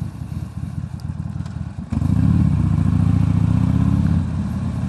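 Motorcycle engine under way. About two seconds in it suddenly gets louder as the rider opens the throttle, its pitch climbing slightly, then eases off a little near the end.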